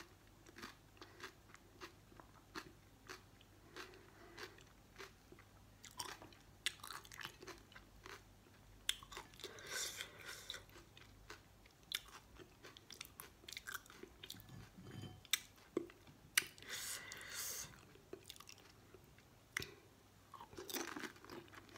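A person eating pani puri: crisp hollow fried puri shells crunching and being chewed, in a run of many short crackles and crunches.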